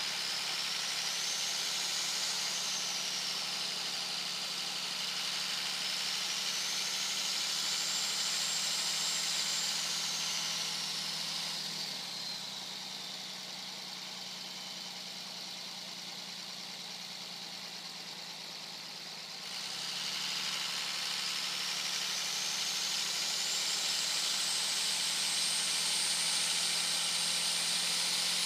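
Turbocharger on a 2001 Dodge Ram 2500's 5.9-litre Cummins inline-six diesel whistling loudly at highway speed over the low engine drone and road noise. The high whistle rises and falls twice, drops out for several seconds in the middle, then climbs steadily higher toward the end.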